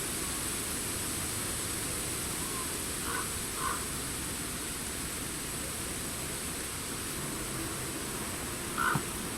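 Steady wind-and-leaf rustle in a forest with a constant hiss. Distant short bird calls come through it, two about three seconds in and a louder one near the end.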